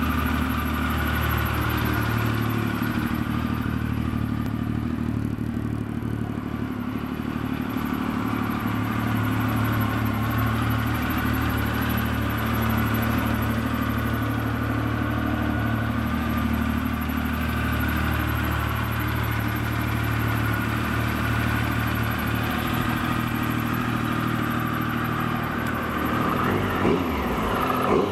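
2002 Triumph Speed Triple's three-cylinder engine idling steadily, with a few short throttle blips near the end.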